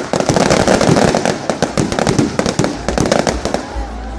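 A string of firecrackers going off: many sharp cracks in quick succession, thinning out near the end.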